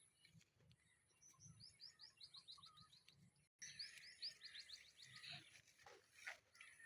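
A small bird singing a rapid run of short, high, falling chirps, about six a second, given twice with a short gap between.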